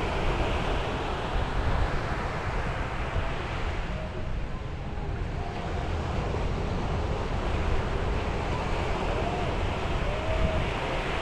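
Sea waves breaking and washing on the shore, a continuous rush of surf that eases about four seconds in and then builds again, with wind rumbling on the microphone.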